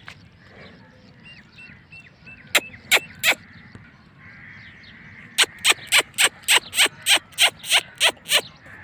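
Short, sharp bird calls: three about two and a half seconds in, then a steady run of about three a second through the second half, with faint small chirps before them.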